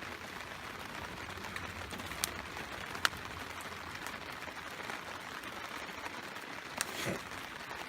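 Steady rain falling on a plastic sheet tarp, an even hiss, with a few sharp clicks about two, three and seven seconds in.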